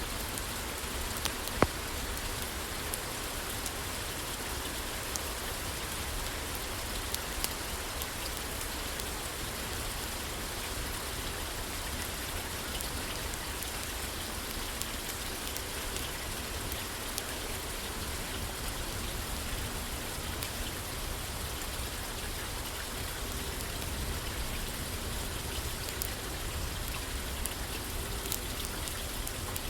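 Steady rain pattering on a roof, with scattered sharp clicks of a crackling fireplace; the loudest crack comes about one and a half seconds in.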